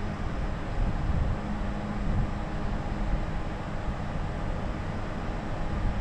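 A boat motor running steadily with a low hum, under the uneven rumble of wind on the microphone.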